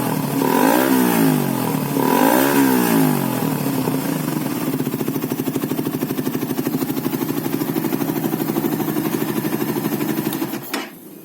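Suzuki Satria FU fuel-injected single-cylinder motorcycle engine breathing through a WRX GP5 V2 aftermarket exhaust. The throttle is blipped twice, the revs rising and falling each time, then the engine settles to a steady, pulsing idle. The sound stops abruptly near the end.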